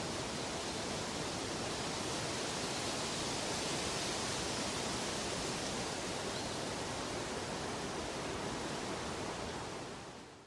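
Steady, even rushing of water, with no separate events, fading out over the last second.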